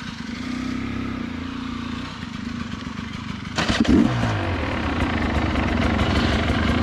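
Two-stroke dirt bike engine idling just after being started, blipped once about three and a half seconds in, then settling back to a slightly louder idle.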